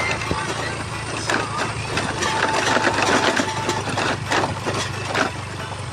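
A motor vehicle's engine running steadily under many irregular rattles and knocks, as it is driven over a rough road. A steady mid-pitched tone sounds for a second or so in the middle.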